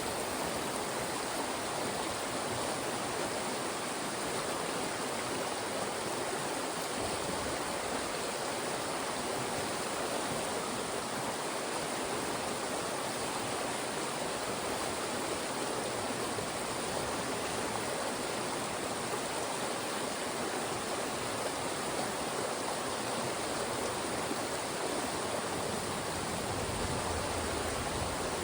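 Fast-moving mountain stream rushing steadily through funnels of rocks.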